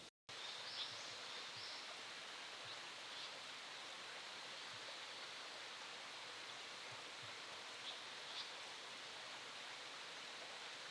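A few faint, short, high bird calls scattered over a steady forest hiss, after a brief dropout just after the start.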